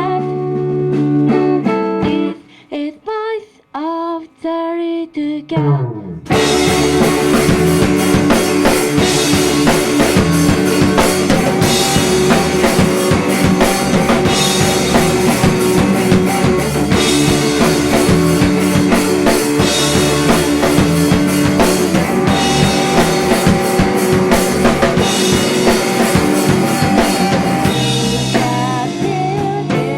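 Live indie-pop rock band of guitar, bass and drums playing a song. After a short sparse break with a few wavering notes, the full band with drums comes back in about six seconds in and plays on, thinning out near the end.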